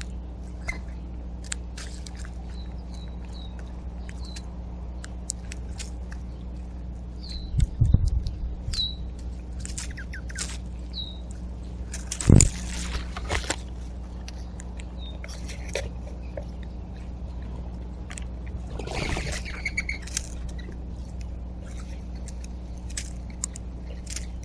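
Backyard birds at a feeder: short high chirps repeated in the first third, many sharp clicks, a loud thump about twelve seconds in, and a harsher, fuller call about nineteen seconds in, over a steady low hum.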